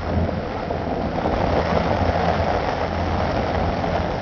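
Heavy rain pouring onto a flooded road: a steady hiss with a low rumble underneath.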